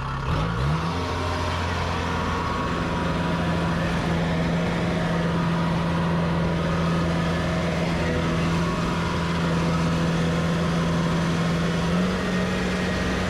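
Rice combine harvester engine revving up from idle at the start, then running steadily at the higher speed, its pitch stepping up slightly near the end.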